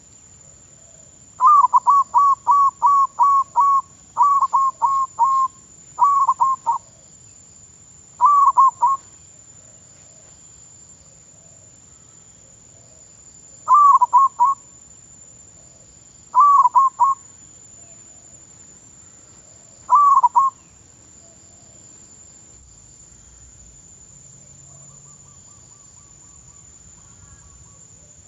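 Zebra dove (perkutut) cooing in bursts of short, falling notes: a long run of rapid notes early on, then groups of three or four notes spaced several seconds apart.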